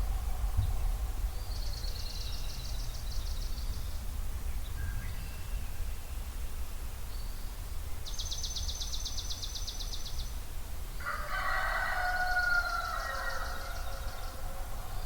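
A rooster crows once, a long call of about three seconds starting about eleven seconds in, while a songbird sings rapid, high, two-second trills three times. A steady low rumble runs underneath.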